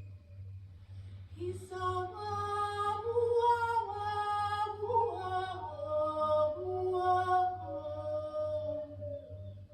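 A woman's voice singing long, wordless held notes that move from one pitch to another, a meditative healing-sound toning, over a steady low hum.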